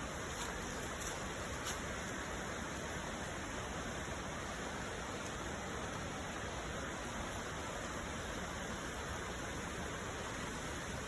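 Stream water rushing steadily below a waterfall: an even, unbroken sound of flowing water.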